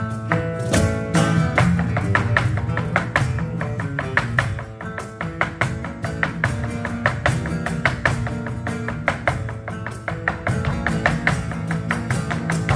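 Live flamenco music: acoustic flamenco guitar playing under a fast, dense run of sharp percussive strikes.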